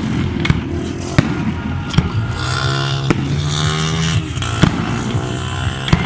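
Aerial fireworks bursting: sharp bangs about seven times over a few seconds, over a continuous din of further bursts.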